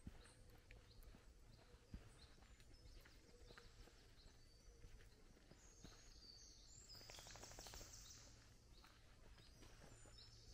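Near-silent woodland with faint birdsong: scattered short high chirps, and a quick trill about seven seconds in.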